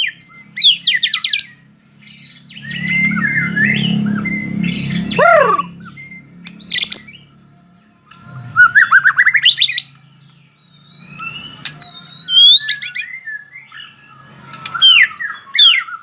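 White-rumped shama (murai batu, Bahorok strain) singing: loud phrases of quick, sweeping whistled notes and chattering, in bursts with short pauses between them. A low hum sits underneath from about three to six seconds in.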